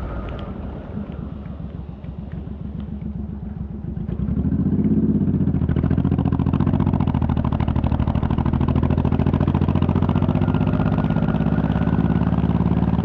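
Honda VTX1800's V-twin engine pulsing at low revs, then opening up about four seconds in and running on steadily and louder under throttle.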